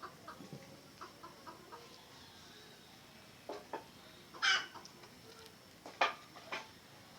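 Red junglefowl clucking: a run of short, even clucks, about three a second, fades out after a couple of seconds. A louder single call comes a little past the middle, with a few sharp clicks or knocks around it and near the end.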